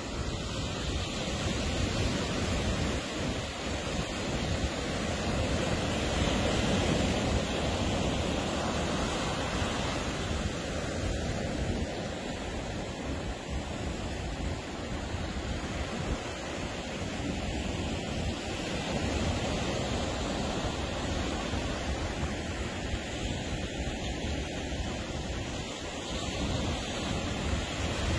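Ocean surf breaking on a beach: a steady wash of waves that swells and eases slowly, with some wind on the microphone.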